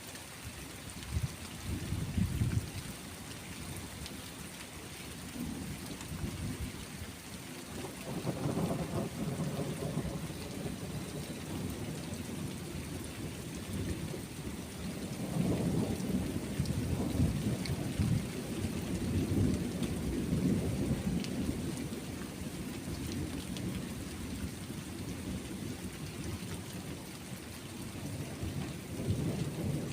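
Steady rain with rolling thunder, low rumbles swelling about a quarter of the way in and again through the middle and near the end.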